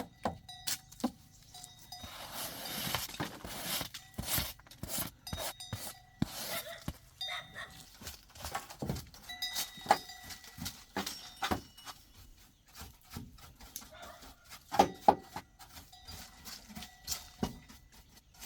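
Irregular clicks, clinks and knocks, some of them metallic, with a short hiss about two seconds in.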